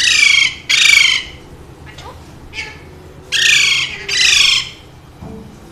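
Alexandrine parakeet squawking: two pairs of loud, harsh calls, each about half a second long, the second pair about three seconds after the first.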